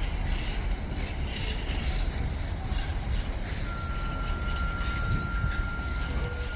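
Container freight train wagons rolling past with a steady low rumble and scattered clicks from the wheels. A thin, high metallic squeal joins about halfway through and holds for roughly three seconds.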